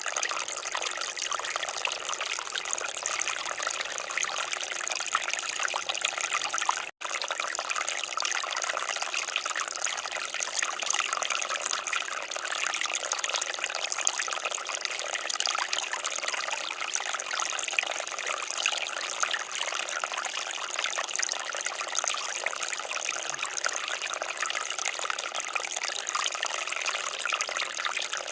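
Water fountain splashing steadily, an even rushing noise with little deep sound in it. The sound cuts out for an instant about seven seconds in.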